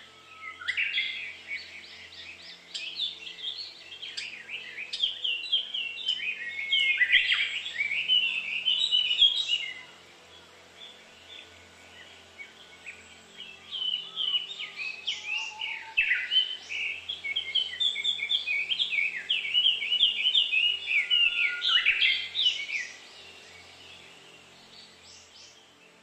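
Bird song: two long bouts of rapid, high chirping and warbling notes, each lasting about nine seconds, with a lull of a few seconds between them.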